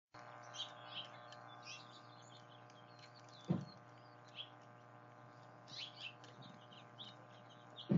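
Small birds chirping with many short high calls, over a steady low hum. Two brief dull thumps, about three and a half seconds in and at the end, are the loudest sounds.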